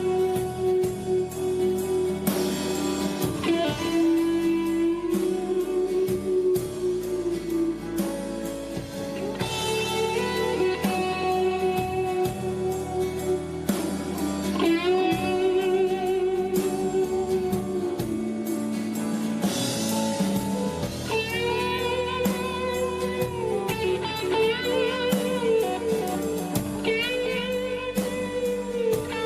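Live rock band playing an instrumental passage: a lead electric guitar holds long sustained notes with bends and vibrato over the band.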